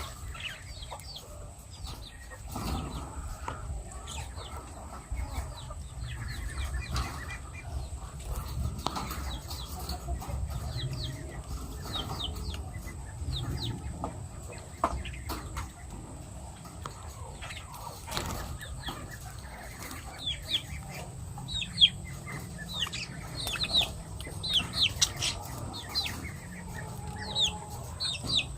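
Lovebirds chirping: many short, high, falling chirps that come thicker and louder near the end, over a low steady rumble.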